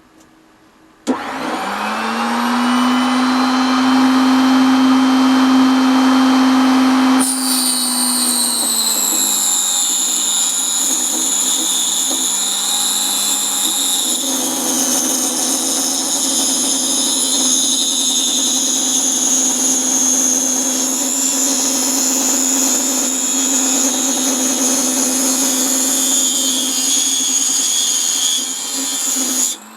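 Proxxon KS 230 miniature table saw switched on about a second in, its motor winding up to speed with a rising whine. From about seven seconds the blade cuts through thin plywood, adding a higher whine as the motor settles under load. The saw is switched off near the end.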